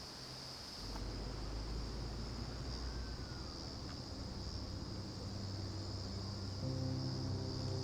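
Steady high-pitched buzzing of insects. Low sustained tones come in about a second in and more notes join near the end, as background music begins.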